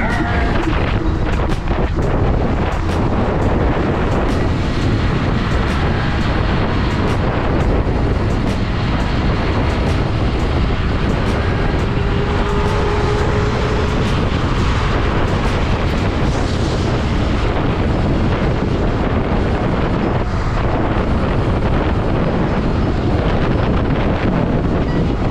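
Steady wind rushing over the microphone on a moving motorcycle, with the bike running underneath it.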